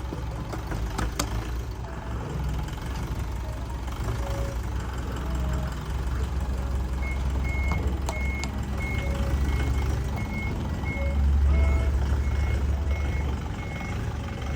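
Mini dump truck engine running under way, its low drone swelling briefly near the end. A short, high beep repeats about twice a second from about halfway through.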